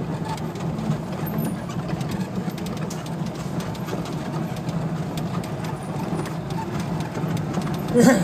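A small car's engine idling close by with a steady low rumble, amid general street noise. A short, louder sound comes near the end.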